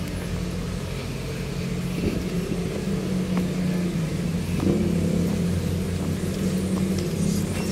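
Motor vehicle engines running in street traffic: a steady low engine hum with a few light knocks.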